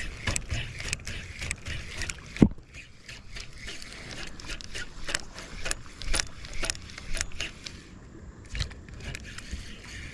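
Irregular light clicks, knocks and scrapes of gear being handled on a paddle board on the water, with one sharper knock about two and a half seconds in.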